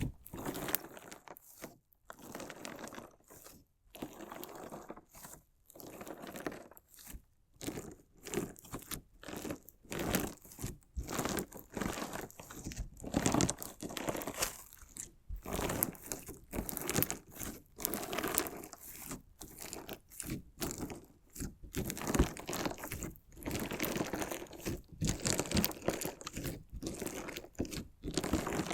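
Crunchy slime being worked against decorative stones, a continuous run of irregular crunching and crackling strokes about once or twice a second.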